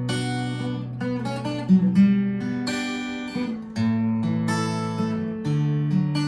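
Acoustic guitar strumming sustained chords as a song's instrumental intro, changing chord about four seconds in and again near the end.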